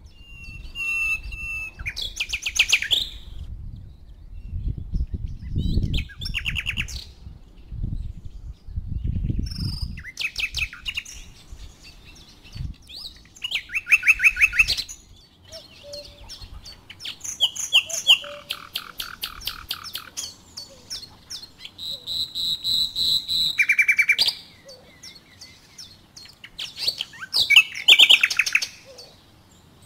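Birds chirping in repeated bursts of quick notes, phrase after phrase with short pauses between. A low rumble sits under the first ten seconds or so.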